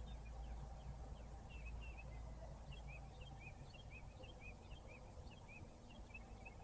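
Songbirds chirping outdoors, a run of short, quick, slurred notes repeating several times a second, over a faint steady low rumble.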